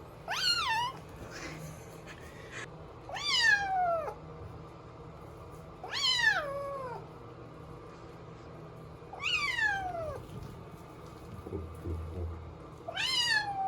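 Three-month-old kitten meowing five times, each meow long and falling in pitch, about every three seconds.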